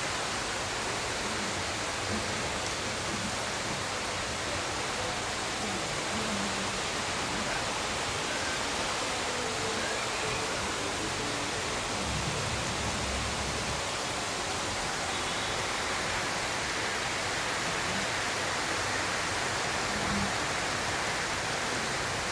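Heavy rain falling, a steady, even hiss. A faint low rumble comes in briefly about twelve seconds in.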